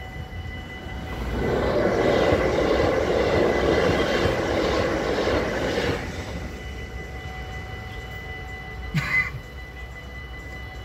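Electric Sprinter (SNG) multiple-unit train passing over the level crossing: a loud steady rush that builds about a second in and cuts off sharply around six seconds. Under it, the crossing's mechanical warning bells ring steadily. A short sharp sound comes near the end.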